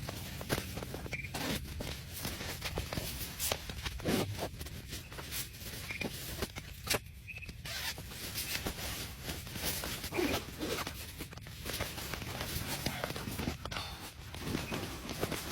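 Irregular rustling and scraping, with scattered light clicks and taps, over a steady low rumble.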